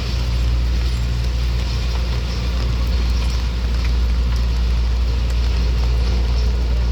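A heavy motor vehicle's engine running steadily at close range, a low, even rumble.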